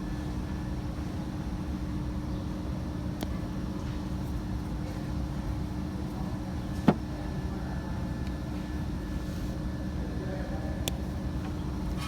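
A steady low mechanical drone, like an engine or motor running, with one sharp knock about seven seconds in and a faint tick near the end.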